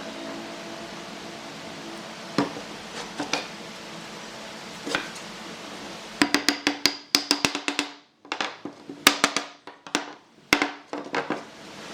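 Sharp wooden knocks and taps from woodworking: a few single taps, then a quick, irregular run of knocks in the second half.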